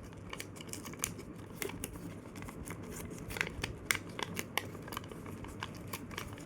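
A sheet of paper being folded and creased by hand, giving irregular light crackles and ticks, with a few sharper ones a little past the middle.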